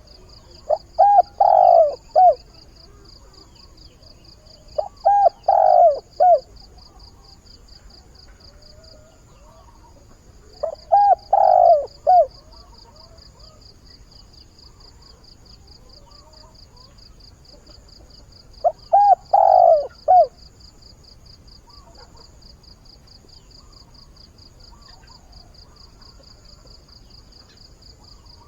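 Spotted dove cooing its multi-note call four times, each phrase about a second and a half long, several seconds apart: a decoy bird's crowing call that advertises for a mate and draws wild doves in. A steady, faint high insect trill runs behind it.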